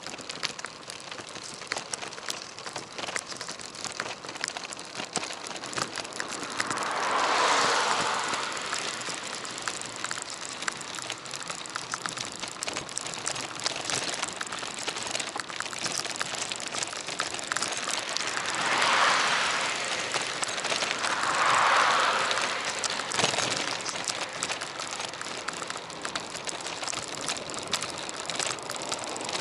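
Bicycle riding noise picked up by a bike-mounted action camera: a steady rush of wind and tyres with many small clicks and rattles, swelling three times into a louder rushing noise that rises and fades over a couple of seconds.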